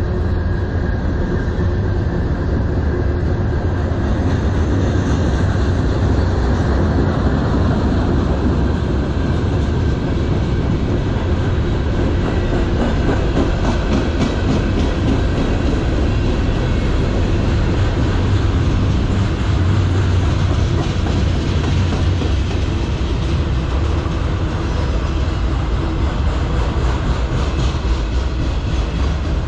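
A freight train of autorack, tank and covered hopper cars rolls steadily past. Steel wheels rumble on the rails, with a clickety-clack of wheels over the rail joints.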